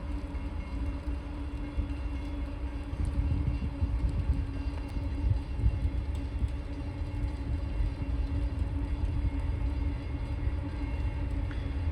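Two diesel freight locomotives hauling a train: a steady low rumble with a held engine drone.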